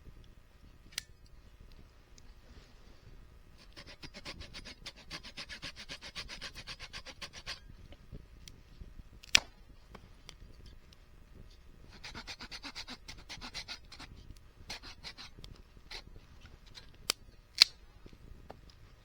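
Rasping, scraping strokes against wood in two spells, the first about four seconds long and the second shorter. A few sharp cracks fall between them, two close together near the end.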